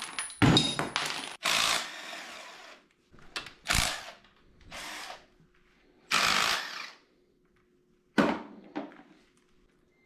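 Power drill running in about six short bursts, trigger pulled and released, with quiet gaps between.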